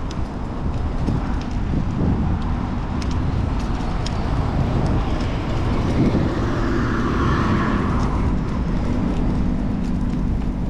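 Wind buffeting the microphone while cycling through city traffic, with a motor vehicle passing about halfway through.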